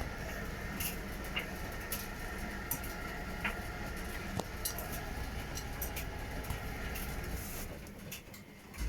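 Front-loading washing machine turning its drum mid-wash: a steady motor hum with irregular clicks and knocks as the laundry tumbles. Near the end the drum stops briefly, as it does before reversing, then starts again.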